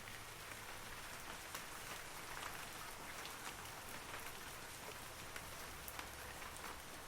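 Steady rain falling on forest trees: an even hiss with many individual drops pattering on leaves.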